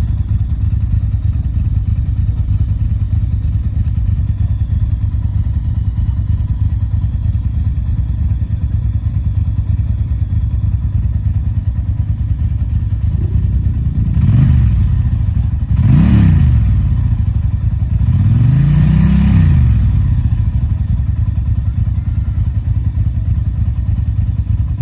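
Vehicle engine idling with a loud, steady exhaust rumble. It is revved three times in the second half, each rev rising and falling in pitch, the last one held longer.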